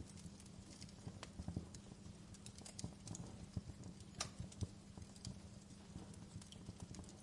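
Wood fire in a fireplace crackling: irregular sharp pops and snaps over a steady low rumble of burning, with a couple of louder pops a little after the middle.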